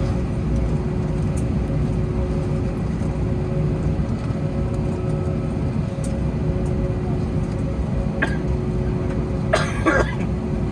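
Cabin noise of an Airbus A321 after landing: a steady low rumble of the engines and air system with a constant hum. A short cough comes near the end.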